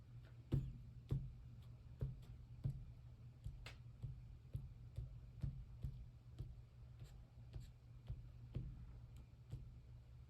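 Soft taps and scuffs of paper being worked by hand on a craft table, roughly one every second, over a low steady hum.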